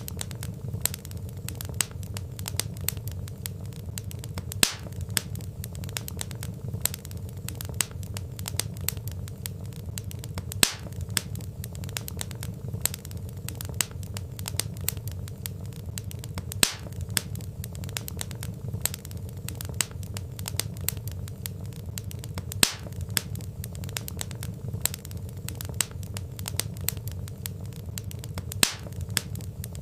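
Wood fire crackling: a steady low rumble of burning with dense small crackles throughout and a sharper, louder pop about every six seconds.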